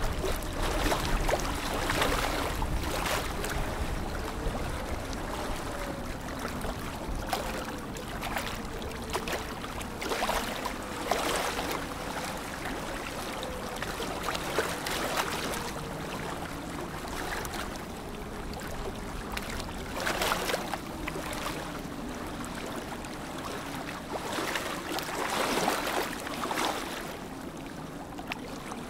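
Lake water lapping and splashing in small waves, with swells every few seconds.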